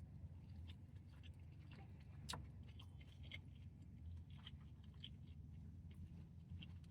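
Faint chewing of a fried chicken sandwich, with scattered small crunches and one sharper click a little over two seconds in, over a low steady hum.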